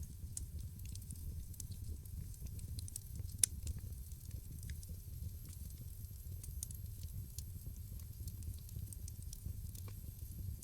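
Wood fire in a fireplace crackling, with scattered small sharp pops over a low steady rumble of flame. One louder pop comes about three and a half seconds in.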